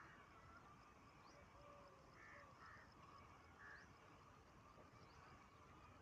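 Faint bird calls: a few short harsh notes, mostly between two and four seconds in, over a steady faint background hum.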